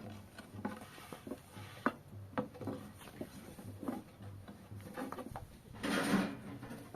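Scattered light knocks and rubbing of things being handled, with a short louder rushing noise about six seconds in.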